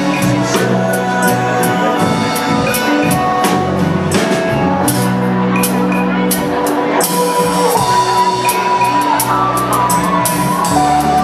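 Live band playing an instrumental passage of a slow Vietnamese ballad: steady drum-kit strokes under sustained melody notes, with one long held note past the middle.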